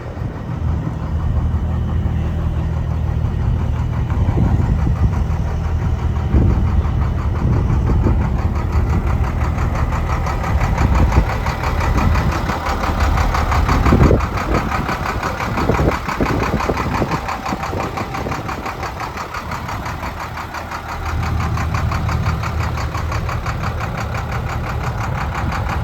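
International DT466E inline-six diesel engine of a flatbed truck idling steadily, with a few brief rises in pitch near the middle.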